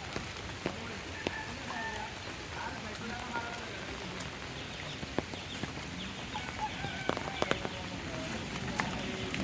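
Steady rain falling, with many sharp taps of single drops striking close by.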